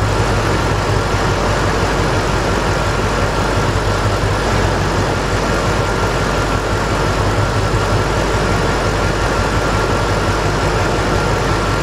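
Ford 5.4 V8 of a 2004 Lincoln Navigator running steadily at idle, with a faint steady whine, while its number-two ignition coil is unplugged in a cylinder-drop test for a misfire. Dropping that cylinder changes the idle only somewhat.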